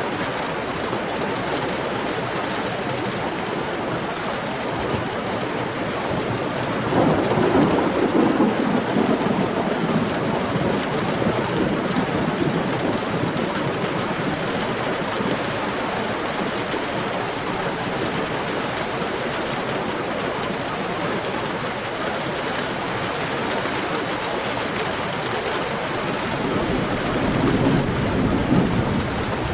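Heavy, steady rain, with a swell of thunder rumbling in suddenly about seven seconds in and fading over several seconds, and another short rumble near the end.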